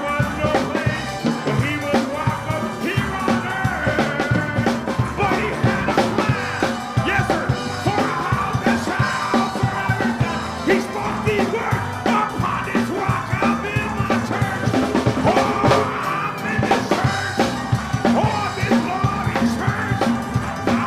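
Live church praise music: a band with a drum kit keeps a fast, steady beat under an upbeat gospel hymn, with voices singing and an occasional shout.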